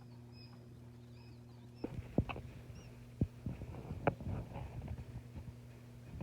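Faint high peeps of newly hatched quail chicks over a low steady hum, then, from about two seconds in, a run of irregular taps and knocks.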